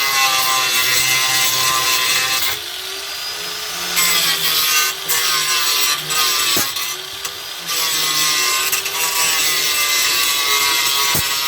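Power grinder working sheet metal, its motor pitch sagging and recovering as it is pressed into the work and eased off, with a lighter stretch about two and a half seconds in.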